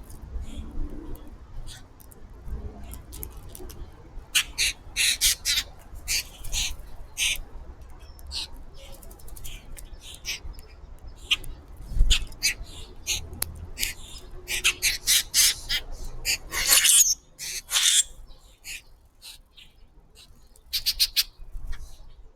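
Birds chirping and calling, many short sharp calls in quick bursts, over a low rumble that drops away about 17 seconds in; a single low thump about 12 seconds in.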